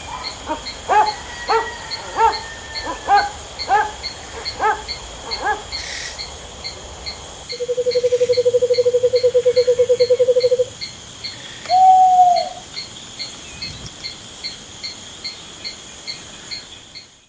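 Forest ambience: a run of about eight short pitched animal calls, evenly spaced, then a loud, fast trill lasting about three seconds and one more single call, over steady high insect chirring.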